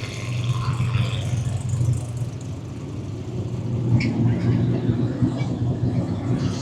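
Drag race car engines running steadily while the cars get ready to race, a constant low drone.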